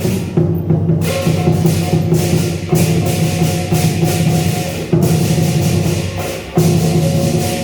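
Chinese lion dance percussion: a big drum with cymbals and gong, struck hard every second or two, each stroke ringing on.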